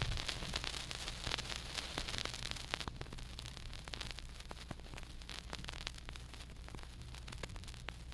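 Vinyl record played through large hi-fi speakers: steady surface hiss with frequent crackles and clicks over a low mains hum. The hiss is brighter for the first three seconds, then eases.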